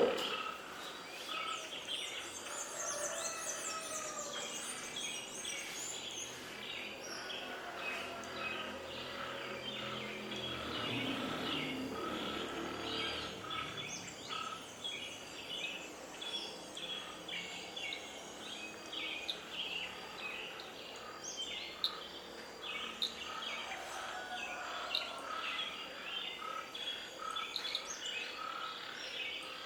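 A dense chorus of many birds chirping at once, short high calls overlapping continuously over a faint hiss of background noise.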